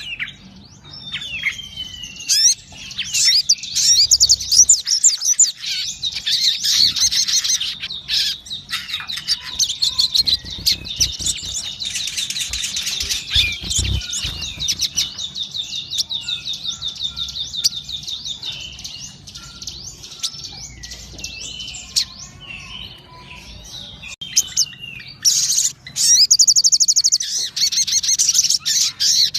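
A sogon songbird singing vigorously: a rapid, high-pitched run of chirps and fast trills, with short pauses, a long rapid trill around the middle and another loud, very fast trill near the end.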